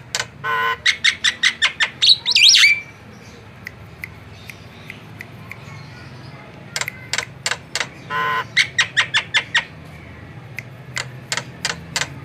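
Javan myna singing: quick runs of sharp clicking notes mixed with harsh squawks, and a loud bending whistled phrase about two seconds in. A second run of clicks and squawks comes from about seven to ten seconds in, with scattered single notes after it.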